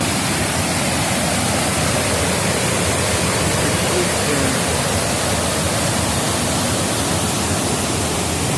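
Water pouring over a man-made waterfall at a dam spillway, a steady, loud rush.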